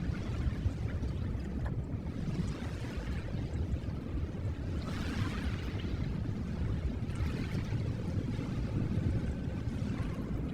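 Recorded ocean surf washing in and out: a steady low rumble of water with a louder wash of hiss swelling up about halfway through.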